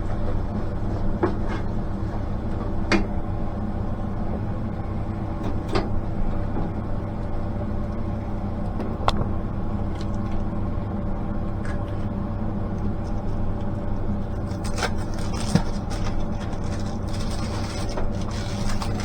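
Steady low mechanical hum, like a kitchen extractor fan, runs throughout, with light clicks of a cooking utensil against a pan every few seconds. A cluster of small crackles and ticks comes near the end.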